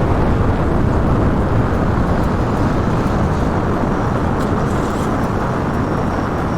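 A loud, steady vehicle rumble with no breaks, easing slightly toward the end.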